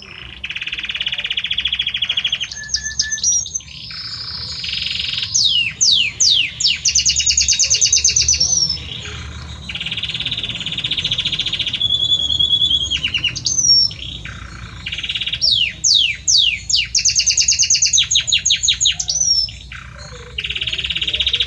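Male Belgian canary singing a long, continuous song of rapid trills, fast repeated notes and quick downward-sweeping whistles, broken by short pauses between phrases.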